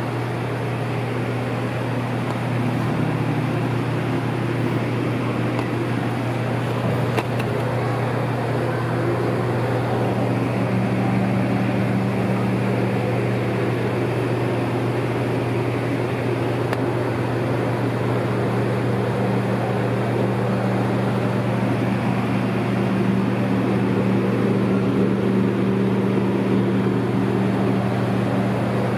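Steady low mechanical hum of running machinery, with a second, higher steady tone joining about a third of the way through, over a constant rushing background.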